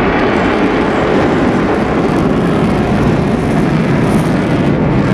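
Fighter jet's engine noise, loud and steady.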